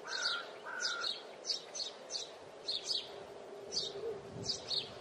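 Birds chirping outdoors: short high chirps repeat about twice a second, often in pairs, with two brief whistled notes near the start, over a faint steady hum.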